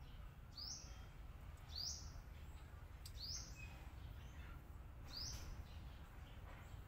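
Four short, high chirps from a small bird, a second or two apart, over a low steady hum.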